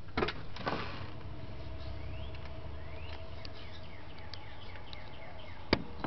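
Faint chirps of small birds, short rising notes repeated through the middle, over a steady low hum. There are a couple of knocks near the start and a sharp click near the end.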